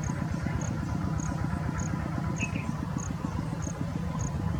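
An engine running steadily with a low, rapidly pulsing rumble. A short high-pitched chirp repeats about every 0.6 seconds.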